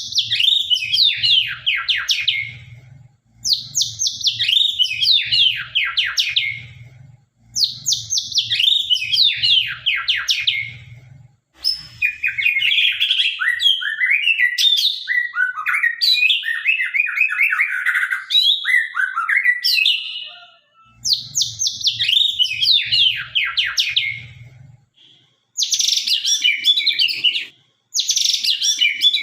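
White-rumped shama (murai batu) singing loudly. It gives a string of phrases a few seconds long, each built from fast, sharp, downward-sweeping whistles, with a longer and more varied phrase in the middle.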